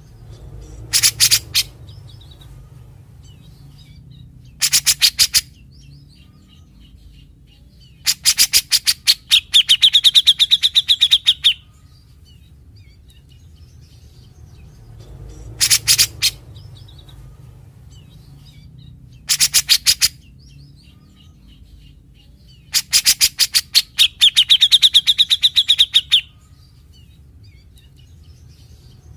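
Cucak jenggot (grey-cheeked bulbul) calling in six bursts of harsh rapid rattling notes, the 'besetan' its song is known for. The two longest bursts, about 8 s and 23 s in, run on into a high buzzing trill. A steady low hum runs underneath.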